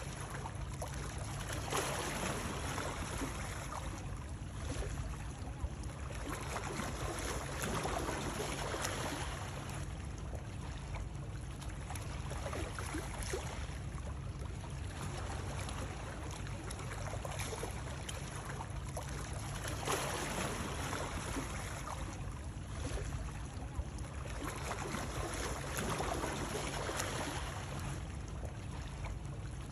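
Continuous flowing, splashing water used as soothing white noise, swelling and easing every few seconds over a steady low rumble.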